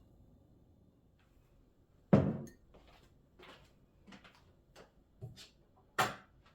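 Two sharp knocks, the first about two seconds in and the second near the end, with a few lighter clicks and rustles between them: household objects being handled and set down.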